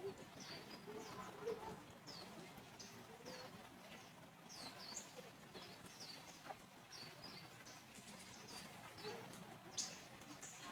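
Small birds chirping faintly: a run of short, high chirps that slide down in pitch, about two a second.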